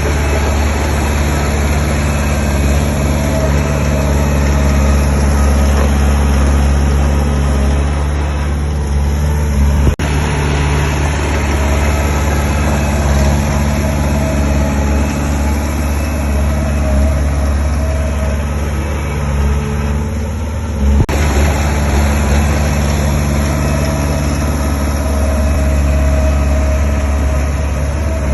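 Diesel engine of heavy earthmoving machinery running steadily, with two abrupt breaks about ten and twenty-one seconds in.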